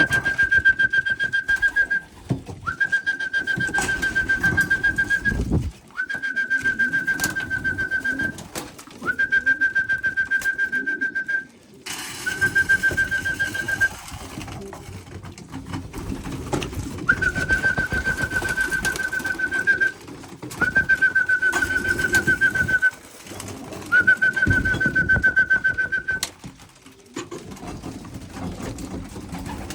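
A whistle blown in eight long, steady, slightly trilling notes of about two seconds each, with a pause after the fifth, calling pigeons in to their feed. Pigeons coo underneath.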